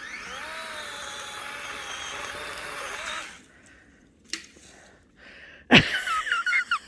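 Quad (ATV) engine running steadily, then switched off about three seconds in. A sharp knock follows near the end, then a short high wavering sound.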